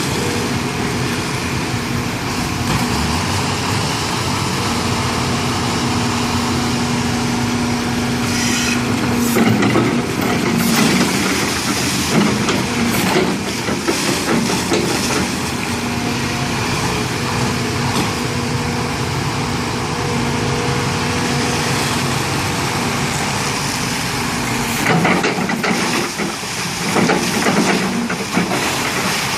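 Diesel engine of a heavy earthmoving machine running steadily, with several louder bursts of hissing, rushing noise over it, about a third of the way in and again near the end.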